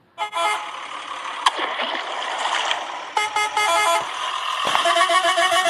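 Toy vehicle's electronic horn beeping in quick pulsed runs: a short run near the start, another about three seconds in, and a longer one near the end, over steady background noise.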